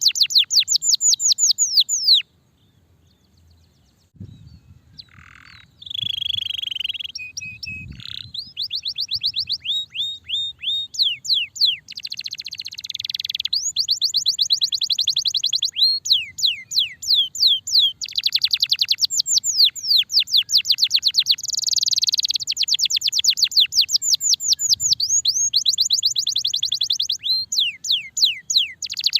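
Domestic canary (starblue) singing a long song of fast, rolling trills made of high down-sweeping notes, varied with other phrases. There is a brief silence about two seconds in, and then the song picks up again.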